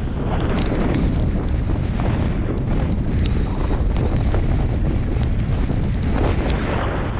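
Strong storm wind buffeting the microphone: a loud, steady rumble with scattered faint ticks.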